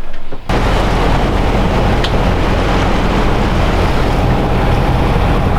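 Sailboat under way: a steady engine hum under a loud rush of water and wind on the microphone, starting suddenly about half a second in.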